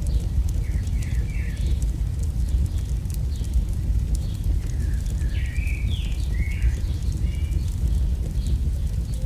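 AI-generated campfire crackle: a steady low rumble of burning wood with small sharp crackles throughout. Birds chirp in quick short phrases about a second in and again from about five to seven seconds.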